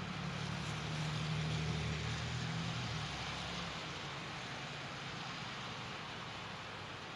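Steady hiss of wind and wet-road noise, with a low motor-vehicle hum that fades away about three seconds in.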